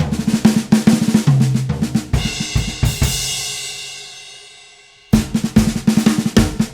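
Drum kit played fast, snare and bass drum strokes in quick succession, ending on a cymbal crash that rings out and fades for about three seconds. The drumming starts again abruptly about five seconds in.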